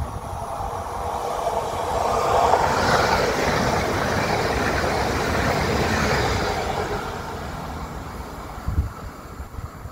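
Pesa Elf 2 electric multiple unit passing close by: the rush of wheels on rails and running gear swells to a peak a few seconds in, then fades as the train runs away. A single sharp thump comes near the end.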